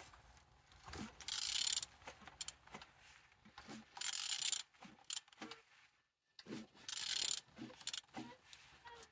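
BMW N47D20 four-cylinder diesel engine being turned over by hand with a wrench: ratchet and mechanical clicks, with three hissing bursts of air a few seconds apart as it rotates. It turns freely, a sign the engine is not seized.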